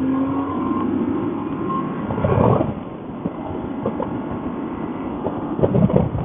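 Motorcycle riding at road speed: engine and wind noise, with a steady engine tone that drops away about half a second in. There are louder rushes of noise about two and a half seconds in and again near the end.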